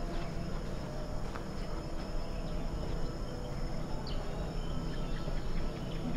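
Rainforest insects calling in steady high-pitched drones, over a constant low rumble.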